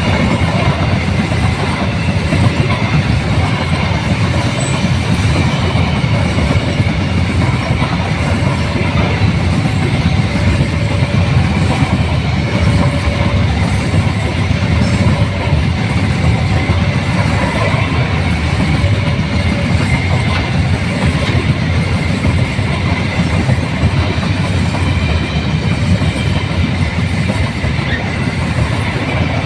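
A long Babaranjang coal train's wagons rolling past on the rails: a steady, loud rumble of wheels on track, with a faint high wheel squeal running through it.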